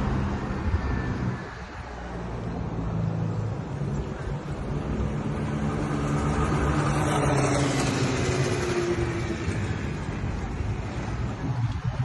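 A motor engine running with a steady hum that grows louder and rises slightly in pitch about halfway through, as if passing close, over constant outdoor traffic-like noise.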